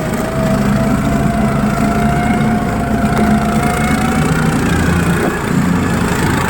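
Engine of a Tofalar 500 motorized snow tow running steadily under way, with a thin steady whine that rises slightly in pitch.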